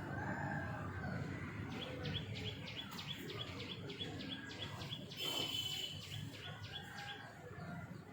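Pet birds chirping: a quick, even run of short chirps, about four a second, starting a couple of seconds in, with a louder burst of calls a little past the middle.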